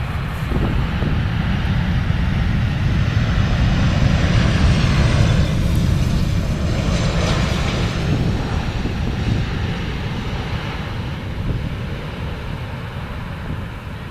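Boeing 747 freighter's four jet engines, a loud roar that swells to a peak about five seconds in and then slowly fades as the aircraft passes.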